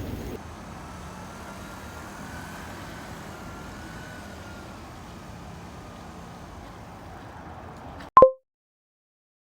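Faint steady background hum with a faint wavering whistle-like tone, then one short, loud electronic beep about eight seconds in, after which the sound cuts to dead silence.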